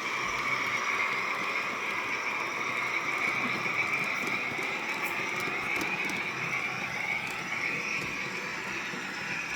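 Model train locomotive running along the layout track: a steady electric motor whine with the rumble of wheels on the rails and light scattered clicks.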